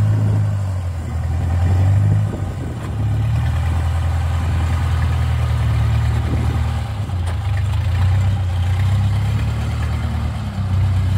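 Yanmar rice combine harvester's diesel engine running steadily, a deep hum whose level sags and recovers slightly.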